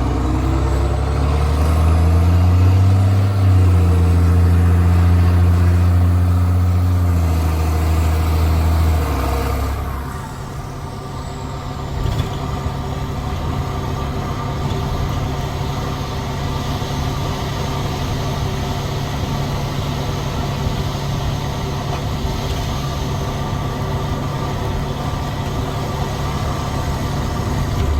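Straight-piped Cummins C8.3 diesel engine of a school bus pulling hard, its pitch rising over the first few seconds and then held for several more. About ten seconds in it drops back to a steady, lower idle that carries on.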